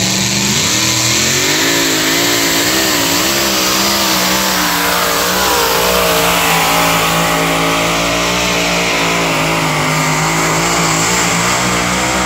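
Engine of an alcohol-fuelled two-wheel-drive pulling truck running at high revs under load. Its pitch climbs about half a second in, wavers up and down for a few seconds, then holds fairly steady.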